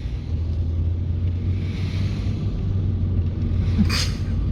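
Steady low rumble of a car's engine and tyres heard from inside the cabin as the car pulls away, rising in level at the start, with one short hiss near the end.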